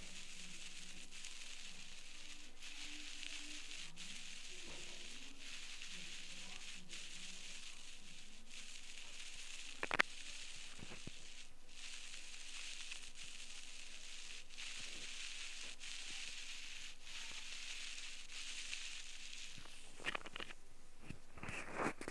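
Steady, faint crackling and sizzling from an ear pick working in an ear canal with oily wax, with one sharp click about ten seconds in and louder, irregular scraping near the end.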